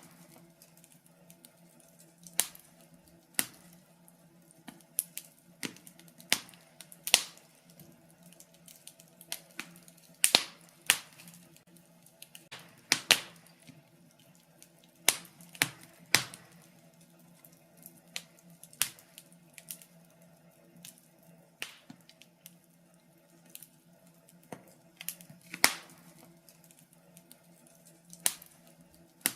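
Wood fire crackling, with sharp pops at irregular intervals about once a second over a faint steady low hum.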